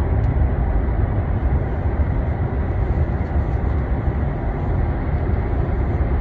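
Steady low rumble of a moving vehicle, an even noise with no change in level.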